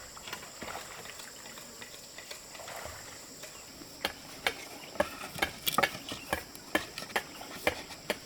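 Steady high insect drone of crickets or cicadas. About halfway through, a quick irregular run of sharp taps and knocks starts and carries on to the end, louder than the insects.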